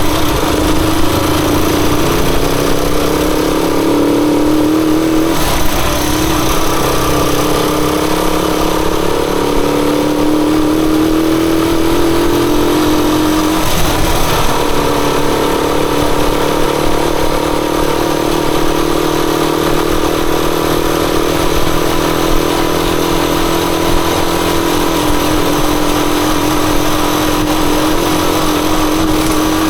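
Rusi Chariot 175 motorcycle engine running steadily on the move, its tone climbing slowly and breaking briefly about halfway before settling again.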